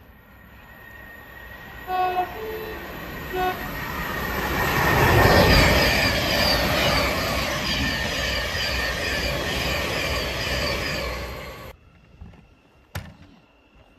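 Thameslink electric multiple unit sounding a short two-tone horn blast, then a second short blast, as it approaches. It then passes close by: the rushing rail and wheel noise swells to its loudest about five seconds in, with a fast, even clatter, and cuts off abruptly near the end. A single sharp click follows.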